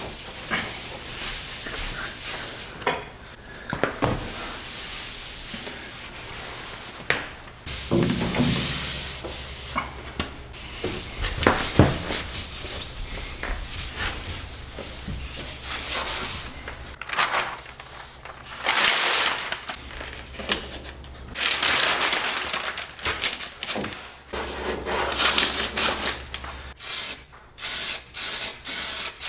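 Sanding and scuffing on a pickup truck's body panels during paint prep, in stop-start strokes of varying length.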